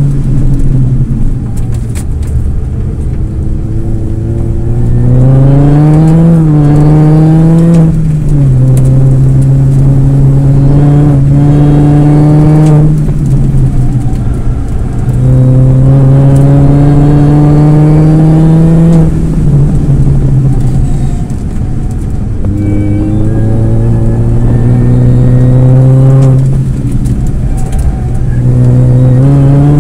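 2002 Mini Cooper S (R53) supercharged 1.6-litre four-cylinder engine driven hard on track: the note climbs under full throttle, drops back at gear changes, and goes quieter several times as the driver lifts and brakes for corners before pulling again.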